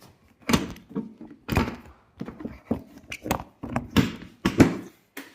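The seat of an Oben Rorr EZ electric motorbike being put back on: a series of about ten knocks and thunks as it is pushed and pressed down into its mounts, the loudest near the end.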